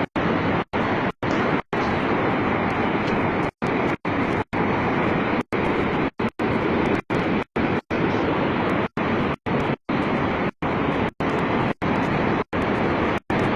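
Steady rushing noise with no clear pitch, broken over and over by brief dropouts to silence.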